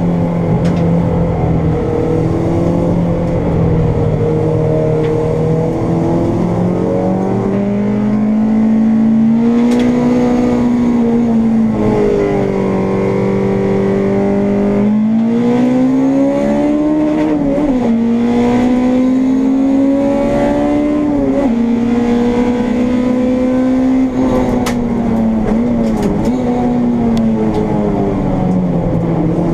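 Honda Integra race car's four-cylinder engine heard from inside the car, running hard at high revs. Its pitch climbs slowly and drops sharply a few times, as with gear changes or lifts off the throttle.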